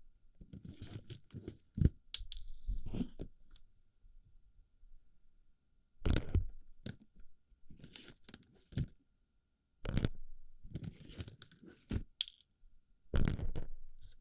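Plastic BB pellets crunching and rustling against a microphone ear, in irregular bursts with short quiet gaps between them.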